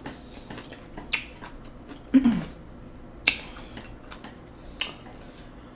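Close-up eating sounds: sharp wet smacks and clicks of chewing, about one every one to two seconds. A brief falling 'mm' comes about two seconds in.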